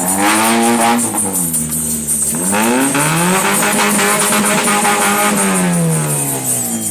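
Car engine revving twice: a short rev up and back down, then a longer one that climbs, holds high and falls away near the end.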